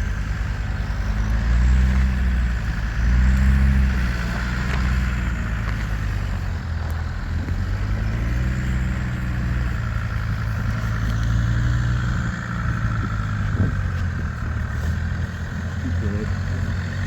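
Vehicle engine running with a low rumble, its pitch rising and falling twice in the first few seconds, then running steadily.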